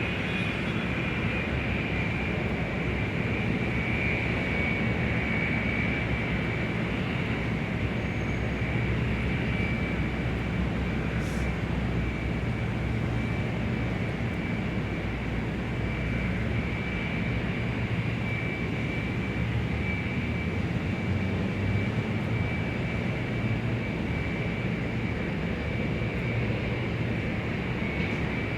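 Large airport ambience dominated by a steady mechanical drone with a low hum and a constant high-pitched whine. There is a single sharp click about eleven seconds in.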